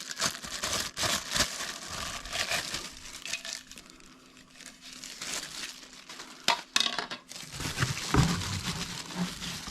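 Plastic wrapping crinkling and rustling irregularly as vacuum parts are unwrapped and handled, with a couple of sharp knocks about two-thirds of the way through.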